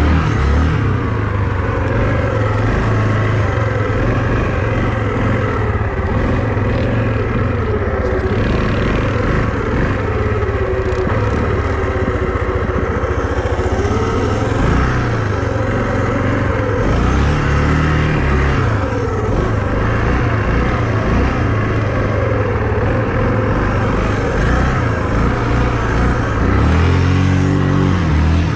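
A vehicle engine running continuously, its pitch rising and falling every few seconds as the throttle is opened and eased off while riding.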